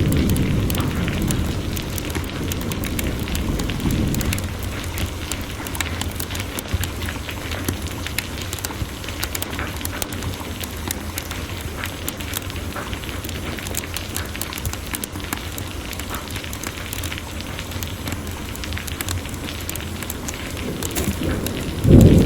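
Wood fire crackling with many small sharp pops over steady heavy rain. A low thunder rumble fades away in the first few seconds, and a new rumble of thunder breaks in suddenly at the very end.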